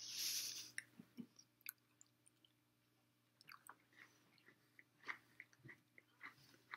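Faint chewing and crunching of peppermint chocolate sandwich cookies, heard as scattered small clicks, with a short breathy hiss at the start and a quiet gap in the middle.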